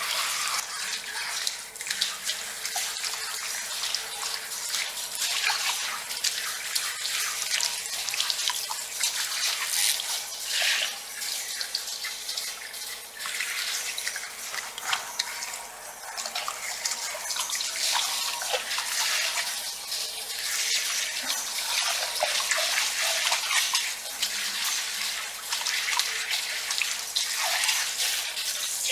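Fingers scratching through hair and scalp, an uneven crackly rustle that swells and fades, over heavy rain on a metal roof.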